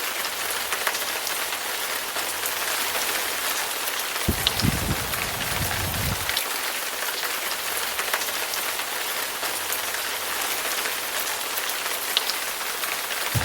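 Heavy rain falling steadily as an even hiss, with scattered sharp drop ticks. About four seconds in, a short low rumble of thunder lasts about two seconds.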